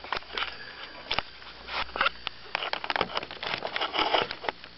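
Irregular clicks, knocks and rustling from handling a freshly caught bass and its lure in a fishing boat.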